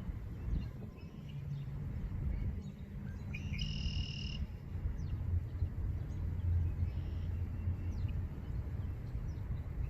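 Outdoor pond-side ambience: a low steady rumble, with a single bird call held for about a second roughly three and a half seconds in and a few faint chirps.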